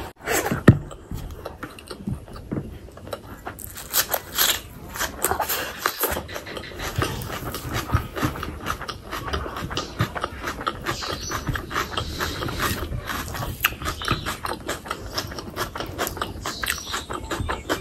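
Close-miked chewing and lip smacking of a mouthful of rice and fatty pork curry, eaten by hand, with a dense run of wet clicks and squelches. A single sharp smack just under a second in is the loudest sound.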